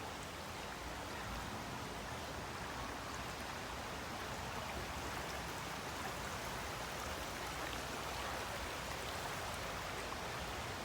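River water rushing and splashing as a steady, even wash of noise.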